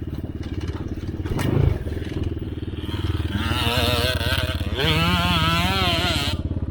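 Enduro dirt bike engines: one runs with a steady low pulse, and from about three seconds in another is revved hard, its pitch wavering up and down, until it drops off suddenly near the end. A single knock sounds about a second and a half in.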